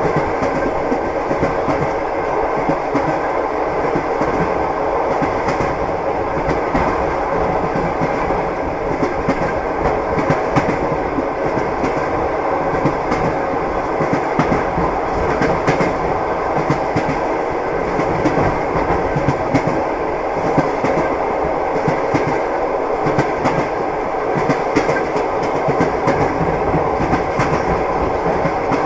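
Train running along the track, its wheels clattering over the rail joints with a steady rumble beneath.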